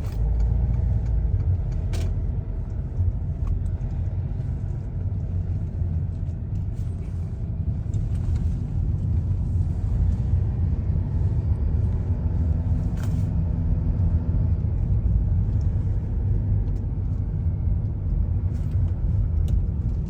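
Steady low rumble of a car driving, with a few light clicks.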